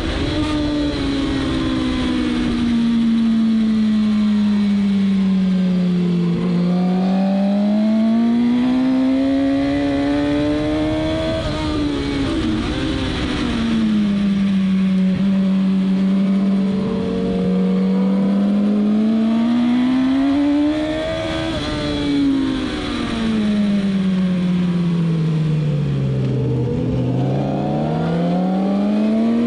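Suzuki GSX-R1000's inline-four engine at racing speed. Its pitch drops several times as the bike brakes and downshifts into corners, then climbs again as it accelerates out. A steady rush of wind runs underneath.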